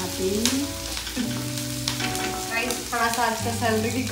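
Chopped onions frying in hot mustard oil in a small kadhai, sizzling steadily, while a wooden spatula stirs them and scrapes and clicks against the pan.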